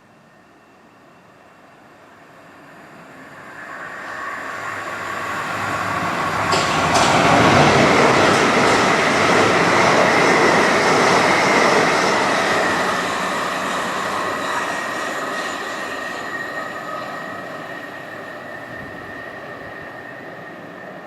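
Electric multiple-unit train approaching and passing. Its rumble builds over several seconds, then the wheels clatter over the rails with a run of clicks at its loudest. It fades away, leaving a thin high whine hanging on.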